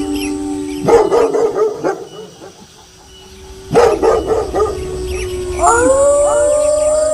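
Wolves howling in chorus, several long held tones, broken by two short bursts of dog barking about a second in and near four seconds. Near six seconds several new howls rise in pitch together and hold.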